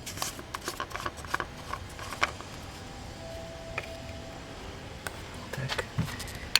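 Scattered light clicks and rustles of handling, with no engine running.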